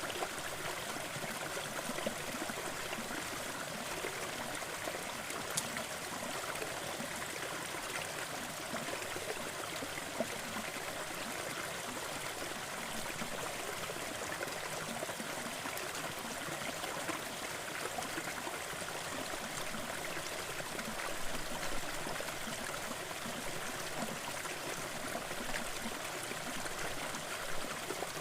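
Small forest waterfall, water splashing and trickling steadily with a few faint drips and splashes.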